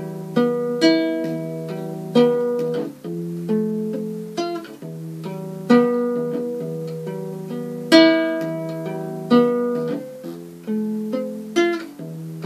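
Instrumental break of a song, played on a plucked guitar: chords and single notes struck one after another, each ringing and fading.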